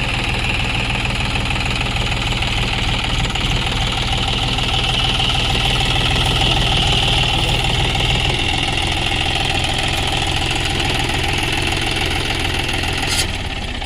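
John Deere tractor's diesel engine running steadily at low revs. The sound cuts off abruptly near the end.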